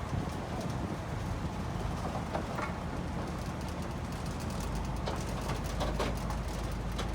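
A stationary train's engine idling with a steady low hum, and a few short clanks about five to six seconds in.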